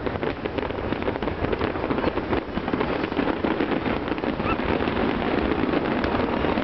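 Fireworks finale: aerial shells bursting in a dense barrage, many rapid bangs and crackles running together into a continuous rumble.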